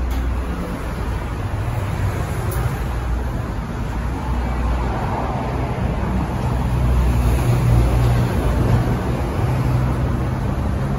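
Steady rumble of passing road traffic, with low wind buffeting on the microphone.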